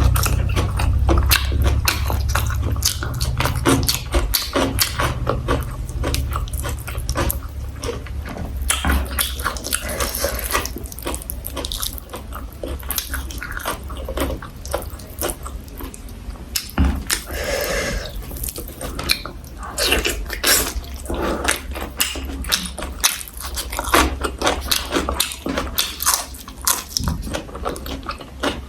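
Close-miked chewing, smacking and crunching of a person eating rice with braised pork, kimchi, pickled garlic and vegetables: many short wet clicks and crackles. A low rumble runs under them for about the first twelve seconds.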